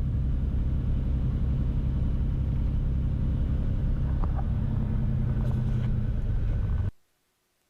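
Beechcraft Bonanza's piston engine and propeller running steadily at low power while taxiing on the ice. The drone cuts off abruptly near the end.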